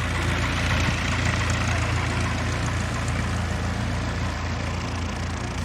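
Aircraft engine running steadily: a continuous low drone under a broad rushing noise.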